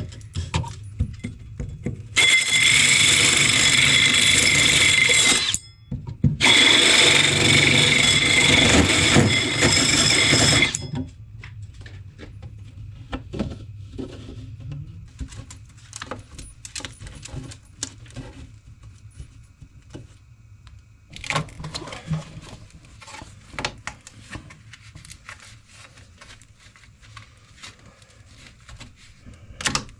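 Power drill running in two bursts of a few seconds each, with a short stop between them, as it cuts a 3-inch hole through the cabin wall. After that come quiet scattered knocks and clicks from handling.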